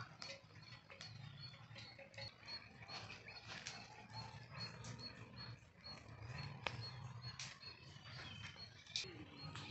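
A bird repeats a short high call about three times a second over quiet outdoor ambience. Scattered sharp crackles and snaps come from a small wood fire of dry sticks.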